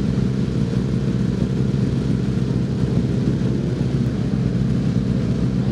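Racing superbike engines heard as a steady low rumble.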